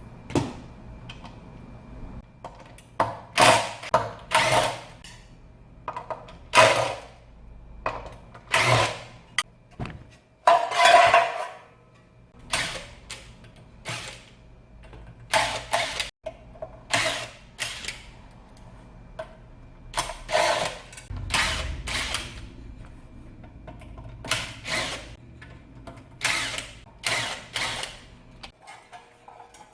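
A factory car-audio amplifier being taken apart with hand tools: irregular clicks, clacks and short scrapes as screws are undone and the casing is opened, with one longer scrape about a third of the way in.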